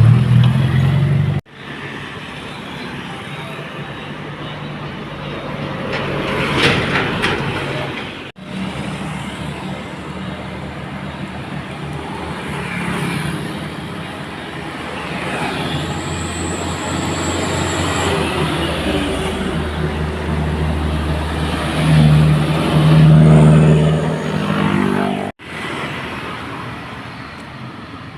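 Loaded dump trucks passing, their diesel engines running under load with road and tyre noise. The engine sound is loudest late on and breaks off abruptly three times.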